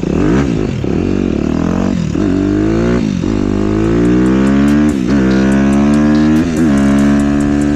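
2015 Suzuki RM-Z250 dirt bike's single-cylinder four-stroke engine accelerating hard up through the gears. The pitch climbs and then drops briefly at each upshift, about six shifts in all, and the later gears are held longer.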